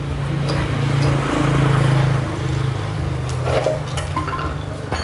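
A car engine running, revving up briefly about a second and a half in, then settling back.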